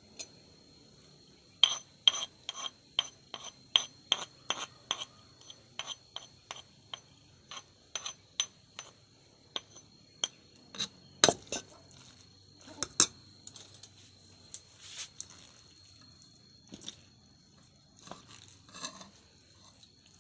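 Kitchen utensils clinking and knocking in a quick run of about three strikes a second, then more sparsely. A steady high cricket chirr goes on underneath.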